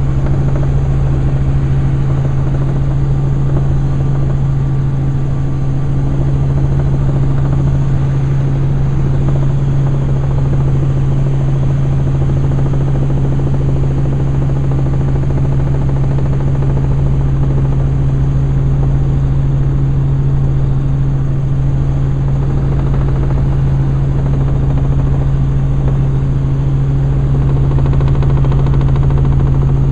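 Helicopter in flight, heard from on board: a loud, steady drone of turbine and rotors with a strong, even low hum.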